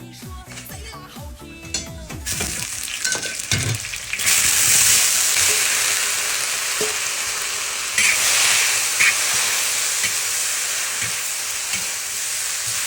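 Food hitting hot oil in a wok about four seconds in, then sizzling loudly and steadily while it is stirred, with a few scrapes or taps of the spatula. Background music plays at the start.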